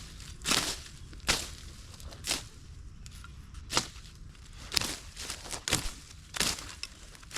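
Irregular crunches and snaps of leaves and twigs, about one a second.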